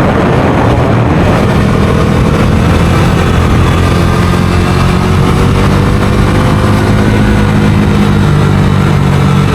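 Bajaj Dominar 250's single-cylinder engine running while the motorcycle is ridden, its pitch shifting slightly with the throttle, over steady road and wind noise.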